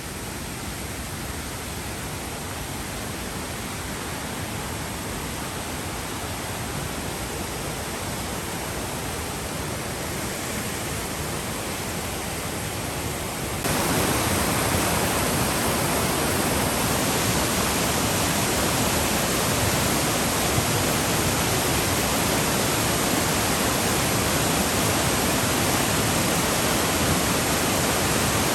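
Rushing water, a steady even rush that steps up suddenly to a louder level about fourteen seconds in.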